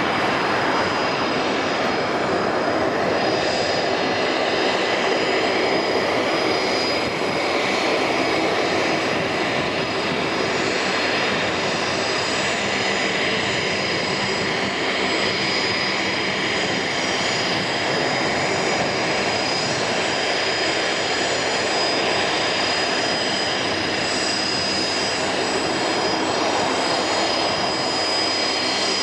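Gulfstream U-4 business jet's twin turbofan engines running steadily: a constant rush with a high, even whine over it.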